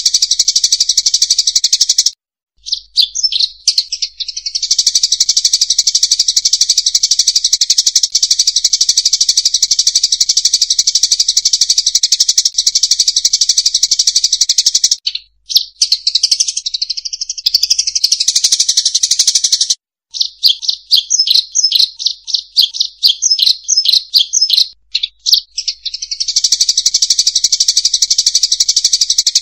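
Flock of munias (emprit sawah) chirping densely and rapidly, played as a lure call to draw the birds in. It breaks off abruptly a few times, and in the latter part the chirps come more separately before the dense chatter resumes.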